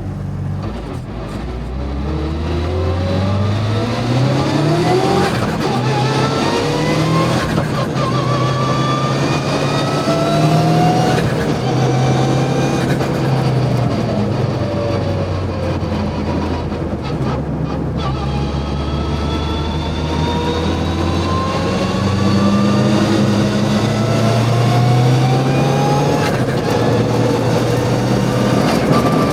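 Mitsubishi Lancer Evo VI Group A rally car's turbocharged four-cylinder engine accelerating hard on track, its pitch climbing and dropping back at each upshift. About halfway through it winds down as the car slows, then pulls up through the gears again.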